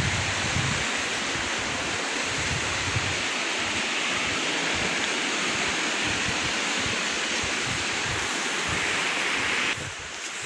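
A river's water rushing steadily, with wind buffeting the microphone in low irregular thumps. The rushing cuts off sharply near the end.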